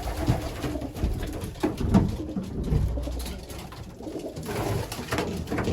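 Racing pigeons cooing inside the loft, with a few knocks from handling, the loudest about two seconds in.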